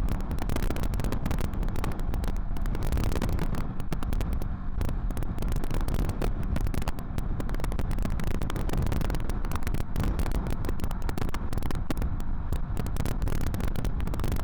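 Wind buffeting and crackling on the microphone while riding a Kawasaki Vulcan S 650 motorcycle at road speed, with the bike's parallel-twin engine and road noise as a low rumble underneath.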